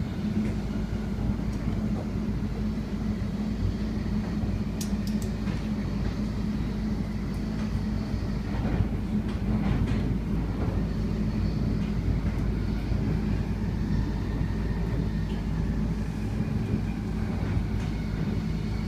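Passenger train running: a steady rumble and hum heard from inside the carriage, with a few faint clicks about five seconds in.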